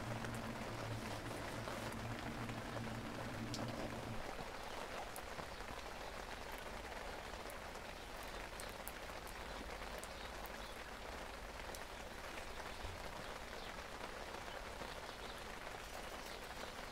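Steady rain falling, an even hiss with scattered faint ticks. A low steady hum underneath stops about four seconds in.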